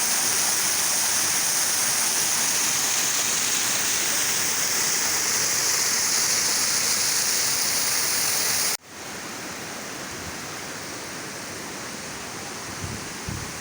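Waterfall rushing steadily, a dense hiss of falling water. About nine seconds in, it cuts abruptly to a quieter, duller rush of water.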